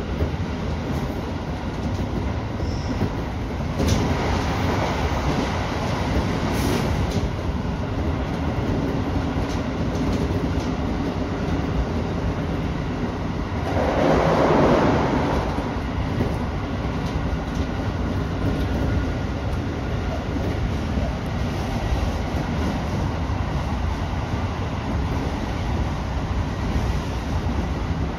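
Tobu Urban Park Line express train running at speed, heard from inside the driver's cab: a steady rumble of wheels on rail with occasional clicks, and a louder swell of noise about halfway through.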